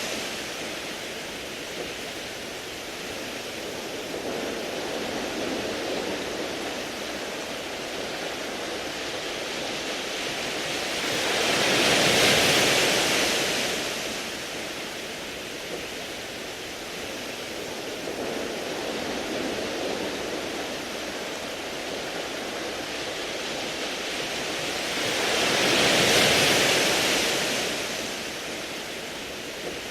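Sea waves washing over a beach of smooth round pebbles: a steady surf wash that swells loudly twice, about fourteen seconds apart.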